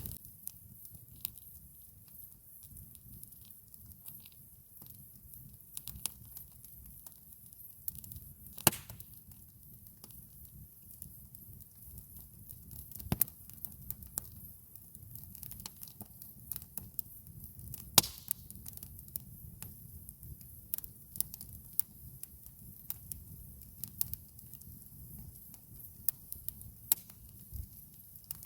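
Campfire crackling: irregular sharp pops and snaps of burning wood over a low steady rumble, with two louder pops about nine and eighteen seconds in.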